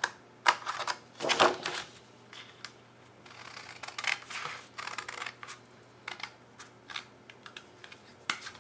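Scissors snipping through cardstock in short, irregular cuts, with the rustle of the sheet being handled and turned.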